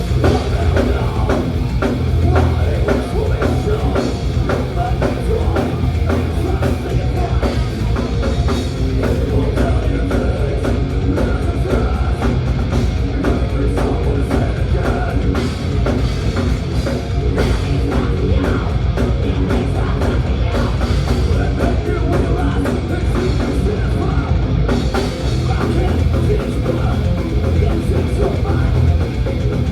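Thrash metal band playing live: distorted guitars, bass and fast, dense drumming, with some vocals.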